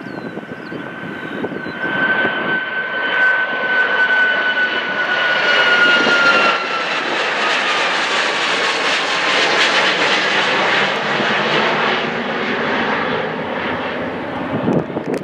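Jet airliner passing close by. Its engine whine slides down in pitch as it goes past, and a broad roar builds to a peak about midway, then eases off.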